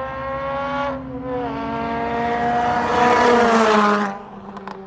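Car engine revving hard with its pitch climbing, dropping at a gear change about a second in, then climbing again. It swells into a loud rush of noise that cuts off suddenly about four seconds in. A few short clicks follow near the end.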